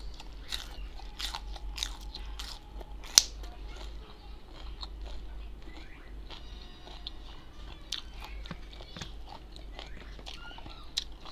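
Close-up crunching and chewing of raw green beans: crisp snaps as the pods are bitten, with wet chewing between them, the sharpest snap about three seconds in.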